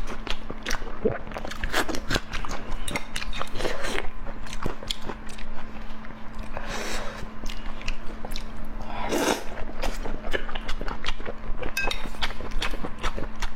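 Close-miked eating: a person chewing and biting with many wet clicks, in the way of an eating-sound (ASMR) recording. Two longer, rougher sounds come about seven and nine seconds in.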